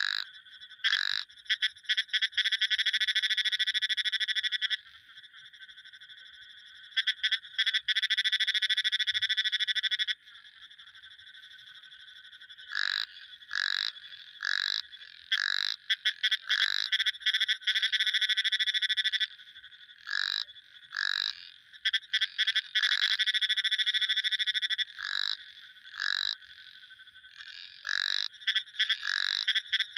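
Frogs calling: long runs of rapid pulsed trilling lasting several seconds at a time, broken up by short separate calls, all fairly high-pitched.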